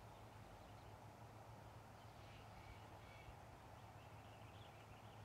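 Near silence with faint bird calls: a few short chirps about two to three seconds in, over a low steady hum.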